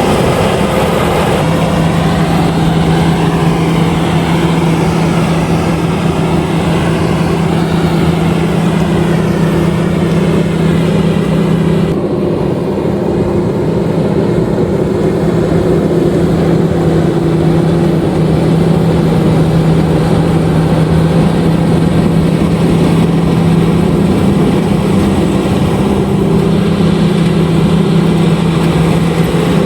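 LOVOL RG130EVO combine harvester running steadily while harvesting rice, its engine and threshing machinery giving a loud, even hum. About twelve seconds in the higher hiss dies down somewhat while the hum carries on.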